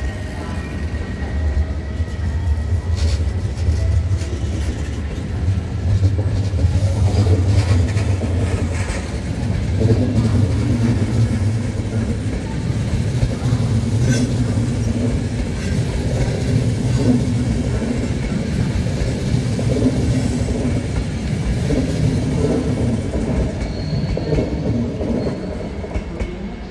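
Passenger train of coaches rolling slowly through the station: a steady low rumble of wheels on track, with occasional clicks as the wheels cross rail joints and points.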